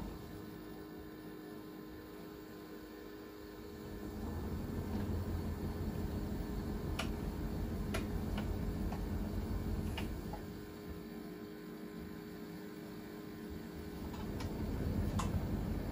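Siemens iQ700 WG56B2090 front-loading washing machine turning its drum in spells of about six seconds, a low rumble, with quieter pauses of about four seconds between them, when only a steady hum remains. A few sharp clicks come during the turning.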